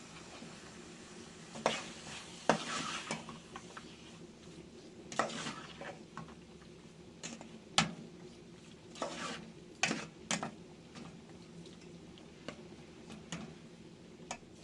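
Utensils clinking, knocking and scraping against pots and dishes in irregular bursts, over a steady low hum.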